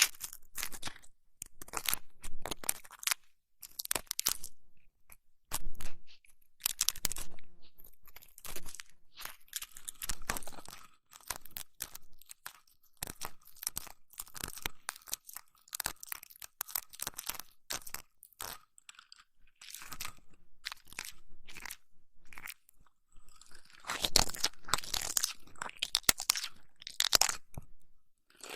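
Close-miked ASMR ear-massage and ear-cleaning sounds: irregular crackling, crunching and rubbing right at the microphone, busier and louder for a few seconds near the end.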